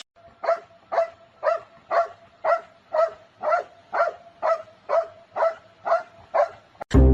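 A dog barking over and over at an even pace, about two short barks a second, a dozen or so in a row.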